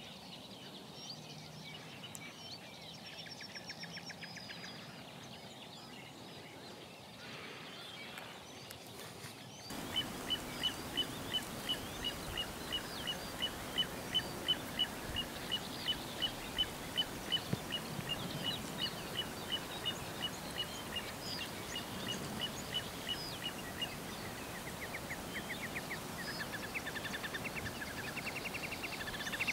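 Wild birds calling over a steady outdoor background. After a cut about ten seconds in, one bird repeats a short high call about twice a second for some fourteen seconds. Fast trilling calls from other birds come near the end.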